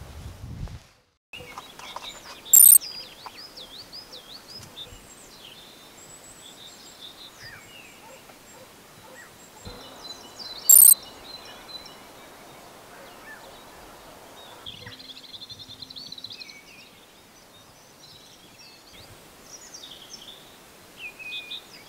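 Birds chirping and calling in short, varied, rising and falling notes over a faint steady outdoor background, with two brief, very loud, high-pitched sounds about two and a half and eleven seconds in.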